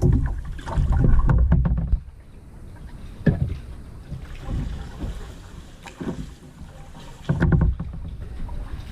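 Kayak paddling: paddle blades dipping and splashing in the water every second or so, with wind rumbling on the microphone at the start and again near the end.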